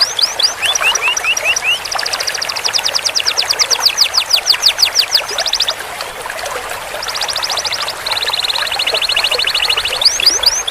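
Canary singing long rolls: fast trills of repeated upswept notes, a slower run of rising notes about a second in, a short break near the middle, then a very fast even buzzing trill and more sweeping notes near the end, over a steady hiss.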